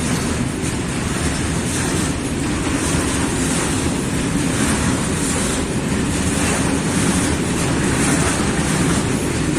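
Freight train of open coal wagons rolling past: a continuous, steady rumble of wheels on rail with an even hiss over it.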